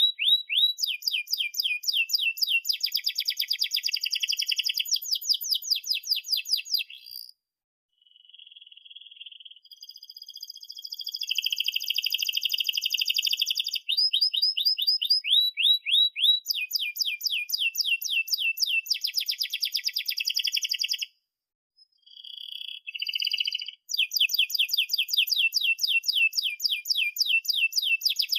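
Domestic canary singing a long, rolling song: rapid series of repeated down-slurred high chirps alternating with buzzy trills. The song breaks off briefly about seven seconds in and again around twenty-one seconds in.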